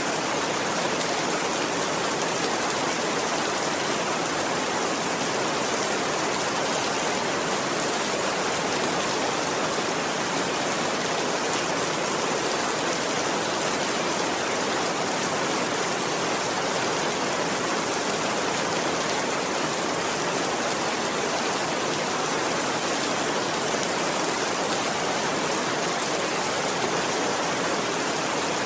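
Steady rainfall, an even hiss of rain with no thunder.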